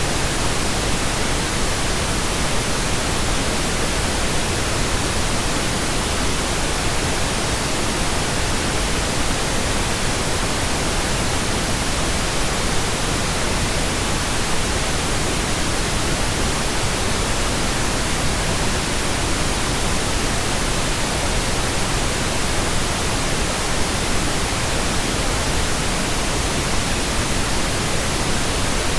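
Steady synthetic pink noise, an even, unchanging hiss generated in Audacity.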